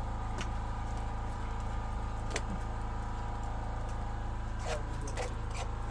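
An engine running steadily at idle, with a few short sharp knocks about half a second in, near the middle and near the end.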